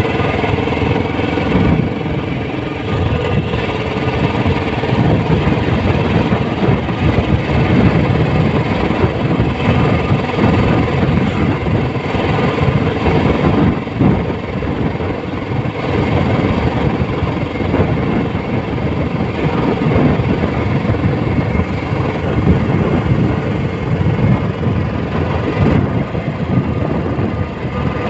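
Royal Enfield Classic 350's single-cylinder engine and exhaust running steadily, with quick regular firing pulses.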